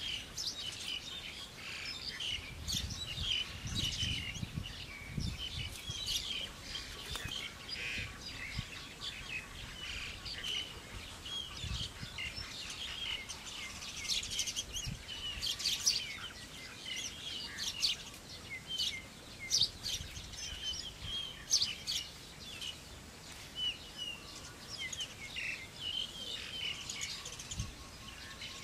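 Many wild birds chirping and calling in quick, overlapping phrases, with occasional low thuds and rustles from bamboo poles being handled and footsteps on the ground.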